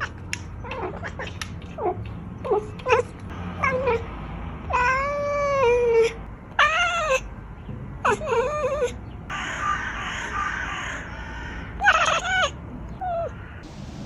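A cat meowing over and over: a run of short, bending calls, with one longer drawn-out call about five seconds in.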